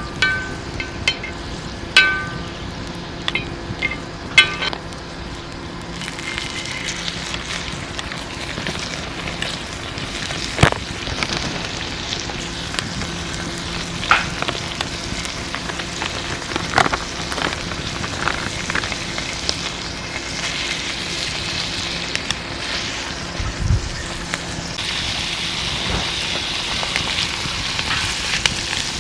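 Angus flat-iron beef sizzling steadily as it cooks, with crackles and pops through the hiss. A few sharp ringing clinks come in the first few seconds.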